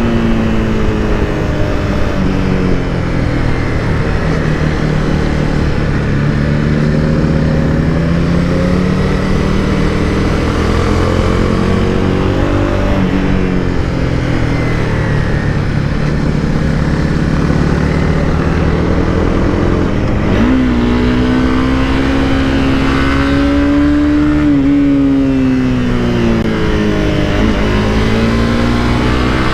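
Honda CBR300R's single-cylinder engine heard from the rider's camera while riding, its pitch falling and rising with the throttle. Near the end the revs climb sharply, then dip briefly twice as gears change, over steady wind and road noise.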